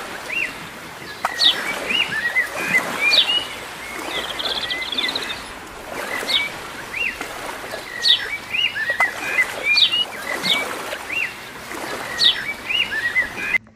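Small birds calling repeatedly: short rising-and-falling chirps and sharp high notes about every second, with one brief buzzy trill a few seconds in, over a steady rushing background noise.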